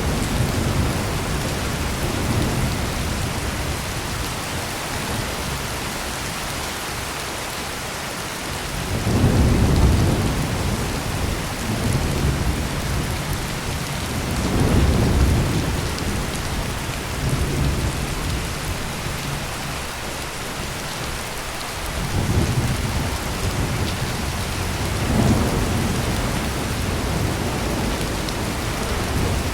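Heavy rain pouring steadily, with rolling thunder rumbling low several times, the loudest about nine seconds in.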